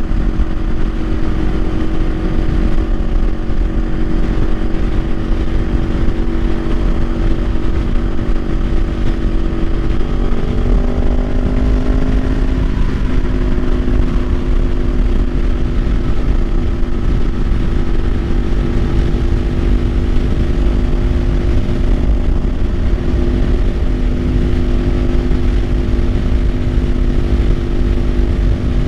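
Kawasaki Ninja 500 parallel-twin engine running at a steady cruise, its pitch rising slightly about ten to thirteen seconds in and then holding, over a heavy low rumble of wind on the microphone.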